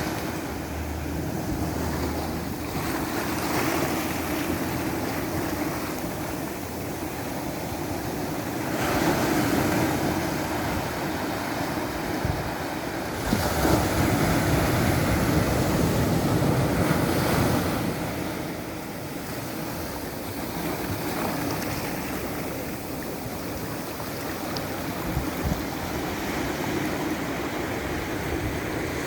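Ocean waves breaking and washing on the shore, the surf swelling louder about 9 seconds in and again from about 13 to 18 seconds, with some wind on the microphone.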